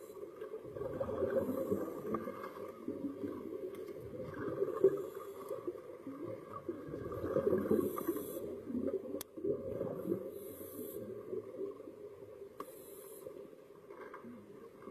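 Scuba diver breathing through a regulator underwater, heard muffled through a camera housing: a low rumble of exhaled bubbles with a short hiss every two to three seconds.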